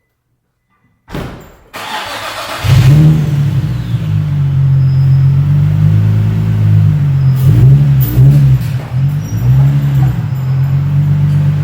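Infiniti G35's 3.5-litre V6 being started: after about a second of silence it cranks, catches close to three seconds in, and settles into a steady idle whose pitch wavers briefly around eight seconds in.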